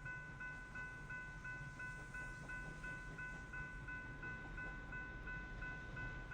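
A Norfolk Southern coal train rolling past with a steady low rumble. Over it runs a steady high ringing tone that pulses about three times a second.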